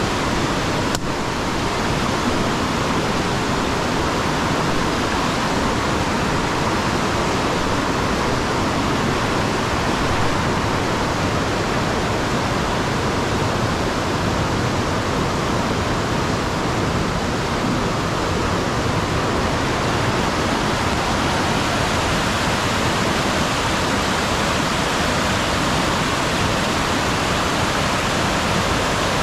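Steady, unbroken rush of falling water with an even hiss across the whole range.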